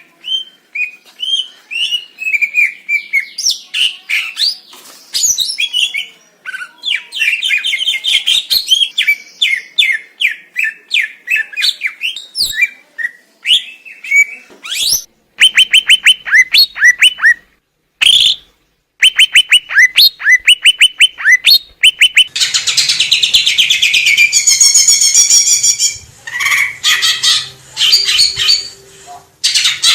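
Green leafbird (cucak ijo) singing a fast, varied song: strings of rapid chirps and quick downward-sweeping whistled notes repeated in runs, with a short pause about two-thirds through followed by a dense burst of chattering notes.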